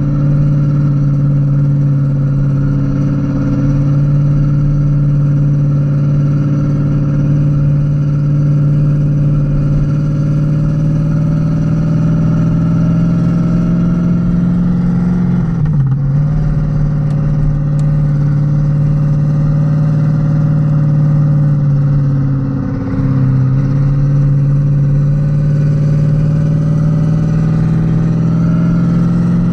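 Renault Kwid's 0.8-litre three-cylinder engine running under way at fairly steady revs. The revs drop briefly about halfway through, pick up again, and dip once more some seven seconds later.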